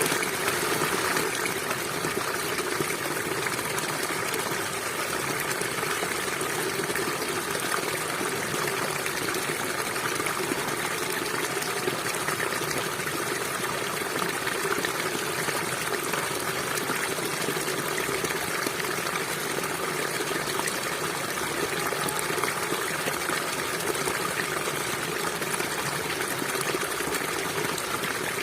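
A small stream running over stones: a steady, even rush of flowing water with no pauses.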